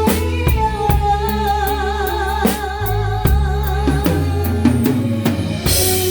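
Live band playing a song: drum kit with kick and snare hits under bass notes and a held, wavering melody line, with a cymbal crash near the end.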